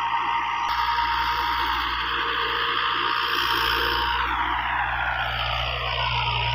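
New Holland 85 hp tractor engine running steadily, with a whine that falls in pitch from about four seconds in.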